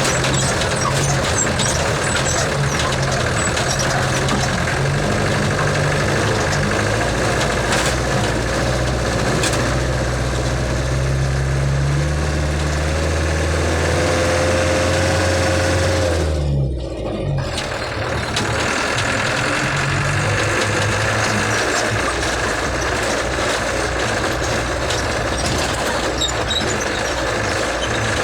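Old car's engine running steadily, its pitch shifting a little, with a brief drop in level a little past halfway before it carries on.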